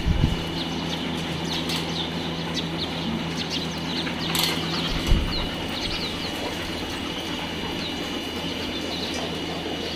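Birds chirping faintly over a steady low hum, with two dull knocks, one at the start and one about five seconds in.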